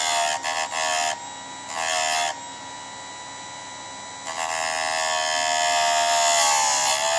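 Chicago Electric chainsaw sharpener's small electric motor whining steadily while its grinding wheel is brought down onto a chain tooth: a few short rasping grinds in the first second, another around two seconds, then one long grinding pass near the end. During the long pass the motor's pitch sags under the load and comes back up.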